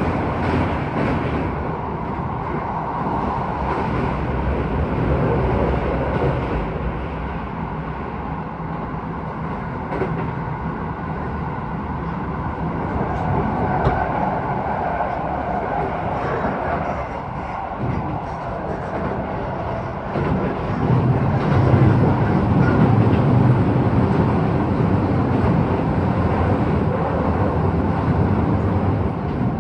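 Keisei 3000 series electric train running between stations, a steady rumble of wheels on rail heard from inside the car, growing louder about two-thirds of the way through.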